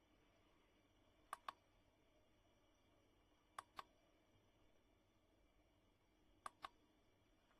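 Three faint double clicks, each a quick pair, about two to three seconds apart, over near silence.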